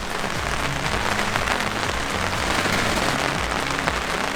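Heavy rain falling, a steady, dense hiss of many drops.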